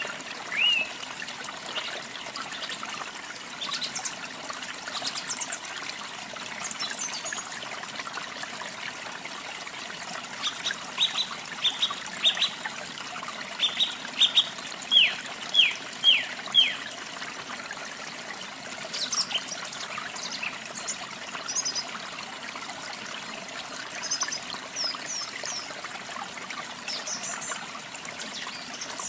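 Steady trickling, running water with birds chirping over it: a quick series of short, downward-sweeping chirps around the middle, and scattered higher, thinner chirps before and after.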